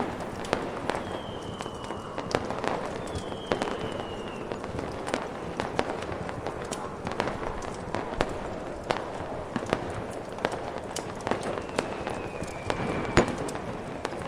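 Fireworks mixed with a crackling fire: steady sharp pops and crackles, several short whistles sliding down in pitch, and a louder bang about 13 seconds in, over a steady hiss of snowstorm wind.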